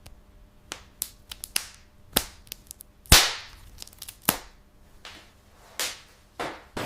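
An irregular series of sharp clicks and snaps, like hard parts clacking and snapping together, with the loudest about three seconds in.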